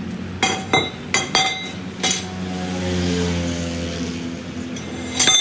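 Metal struck several times, sharp ringing clanks: a few in the first two seconds and one more near the end, over the steady hum of a running machine.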